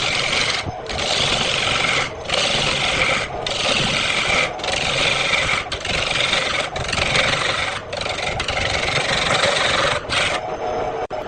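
Wood lathe running, with a turning tool scraping and cutting the spinning wood in repeated passes, each broken by a short gap about once a second, over the steady hum of the machine. Near the end the cutting stops, leaving the hum.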